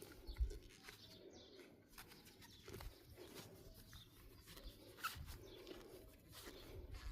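Faint bird cooing, with scattered small clicks and a sharp low thump about half a second in.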